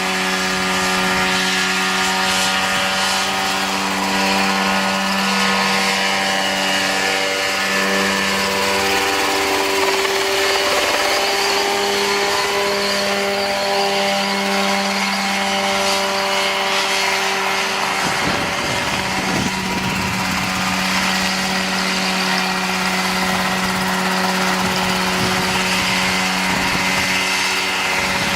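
Homemade Mosquito ultralight helicopter running, its engine holding a steady note with the pitch wavering a little about a third of the way in. From about two-thirds in, a gusty low rumble joins it.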